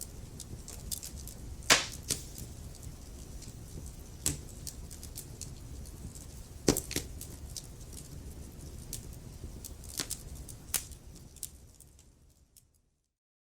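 Wood fire burning: a steady low rumble of flames with sharp crackles and pops every second or two, fading out to silence near the end.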